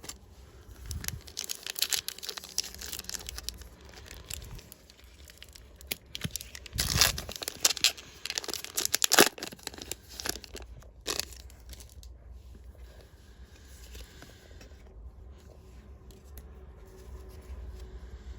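A Disney Lorcana booster pack's wrapper being torn open and crinkled, with crackling through the first few seconds and the loudest rips about seven and nine seconds in, then quieter rustling.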